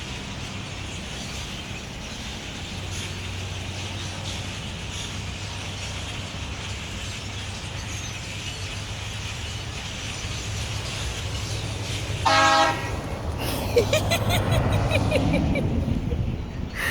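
A large flock of black birds calling in a steady, dense chatter. About twelve seconds in, a short horn toot sounds, followed by a louder rush of noise lasting about three seconds.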